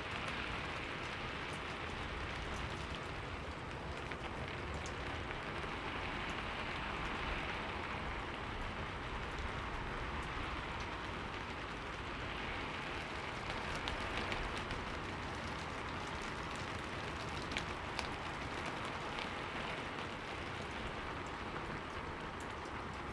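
Steady rain falling on a window pane: a constant even hiss that gently swells and ebbs, with scattered sharper taps of single drops.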